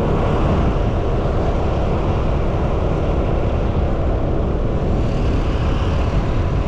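Steady engine and wind noise of a motorcycle being ridden.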